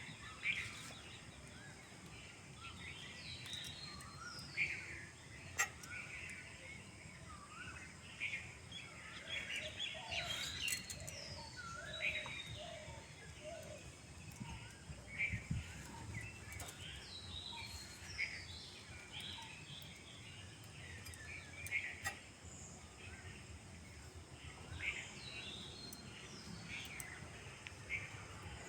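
Small birds chirping and calling outdoors, many short quick notes scattered throughout over a faint steady background, with a few sharp clicks.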